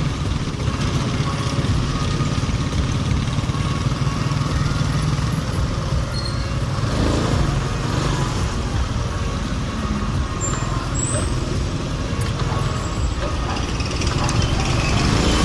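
Wind buffeting the helmet-mounted earphone microphone of a rider on a moving motorcycle: a steady low rumble of noise that covers the bike and traffic beneath it.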